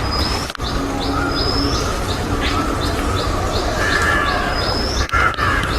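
Small birds chirping repeatedly in short, high notes, several a second, over a steady low background hum.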